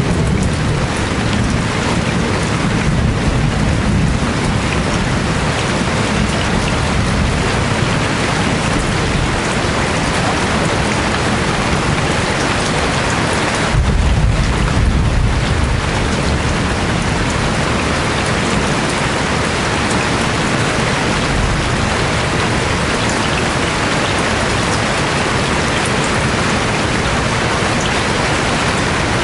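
Steady heavy rain pouring down, with a brief low rumble about halfway through.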